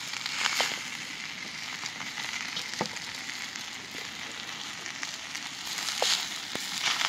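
Pieces of dry coconut and roasted onion sizzling in a little oil on a hot iron tawa over a wood fire, with a few sharp clicks as a spatula stirs them.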